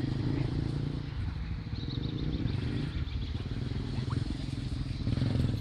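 Honda Tornado 250's single-cylinder four-stroke engine running at low, fluctuating revs as the motorcycle is ridden slowly through a tight course.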